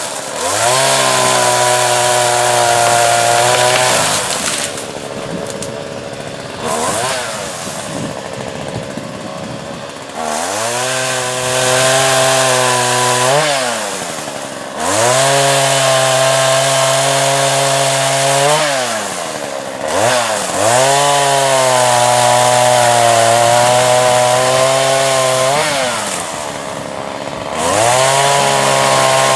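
Small two-stroke petrol chainsaw, a salvaged JCB, running hard. It is held at a steady high speed for a few seconds at a time, about five times, and drops back to a lower, rougher running in between.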